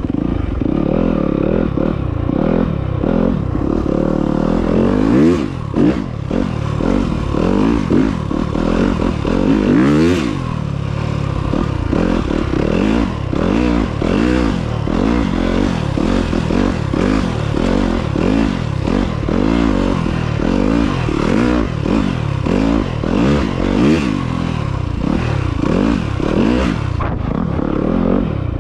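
Off-road motorcycle engine being ridden, its pitch rising and falling again and again as the throttle is opened and closed, with occasional knocks and rattles.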